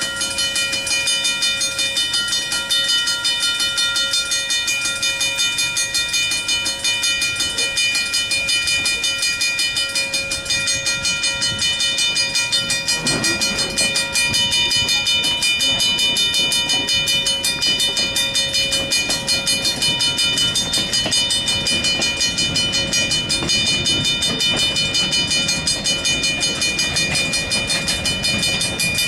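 Passenger train running along the track, with a steady rhythmic pulsing and several steady high tones held throughout.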